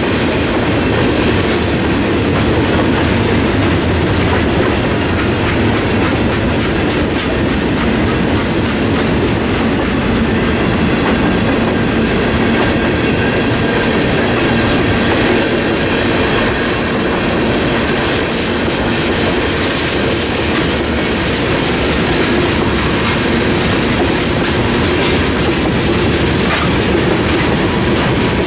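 Freight train cars rolling past at steady speed: a continuous rumble of steel wheels on the rails with the rhythmic clickety-clack of wheels over rail joints, tank cars and covered hoppers going by one after another.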